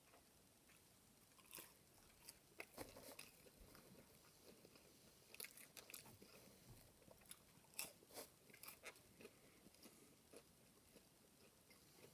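Faint, irregular crunching and chewing of crispy breaded Burger King spicy chicken nuggets being eaten. Short crackly crunches come in scattered clusters, starting about a second and a half in.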